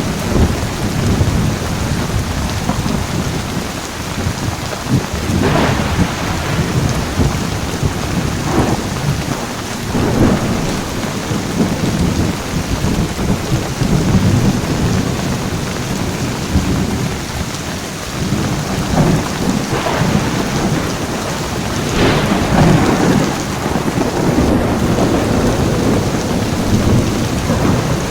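Heavy rain falling steadily through a thunderstorm, with thunder rumbling low and continuously under it and a few sharper cracks of thunder scattered through.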